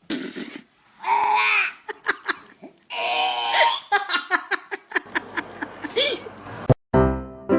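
A person laughing and giggling in short bursts, with scattered clicks and taps between them. Piano music starts abruptly near the end.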